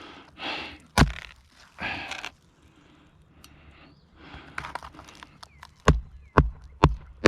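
Roofing hatchet driving nails into brittle asphalt shingles: one sharp blow about a second in, then four quick blows near the end, about two a second. Between them, the rustle and scrape of the stiff shingles being lifted and worked.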